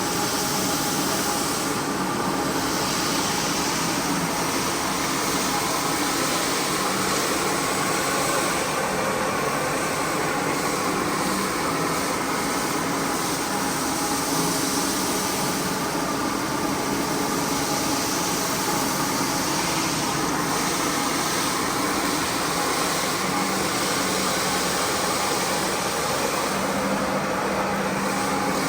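Carpet-cleaning machine motor running steadily: a continuous whir with a few steady hum tones.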